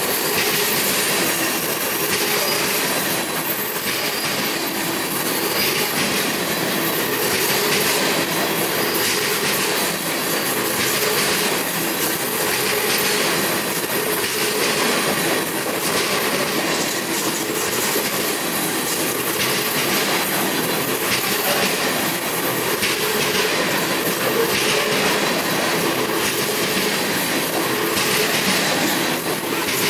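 Freight train of gondola cars rolling past: a steady rush of steel wheels on rail with repeated clicks as the trucks cross the rail joints.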